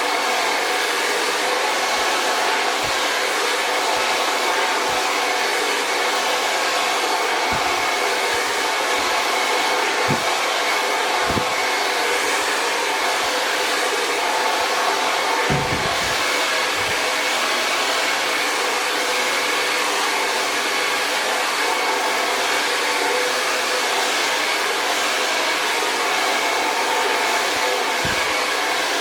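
Hair dryer running steadily while blow-drying thick natural hair: a continuous rush of air with a faint steady whine. A few soft low thumps break in here and there, the loudest about halfway through.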